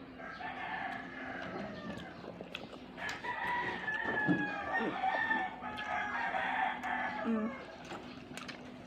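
Chickens calling, with held, wavering calls through most of the stretch and a few light clicks over them.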